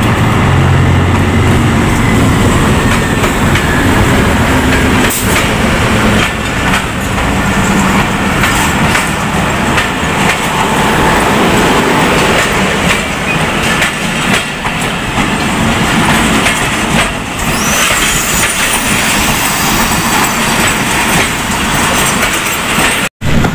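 Diesel locomotive passing close by, its engine heard in the first second or so. Passenger coaches then roll past on the track: a loud, steady rumble with a run of clicks from the wheels.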